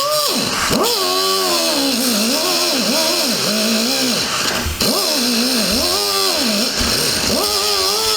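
Race car engine being cranked on its starter without firing. The whine rises and falls in pitch over and over, about once a second, with a steady hiss behind it. The engine is flooded.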